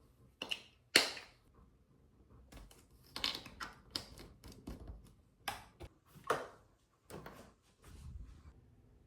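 An irregular series of sharp clicks and knocks, the loudest about a second in.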